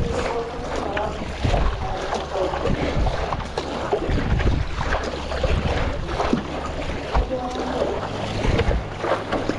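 Water splashing and sloshing around a stand-up paddleboard on choppy sea, with gusty wind buffeting the microphone.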